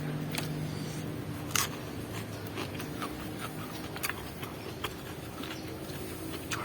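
Close-up chewing of crisp raw vegetables: scattered crunches and mouth clicks, the sharpest about a second and a half in, over a steady low hum.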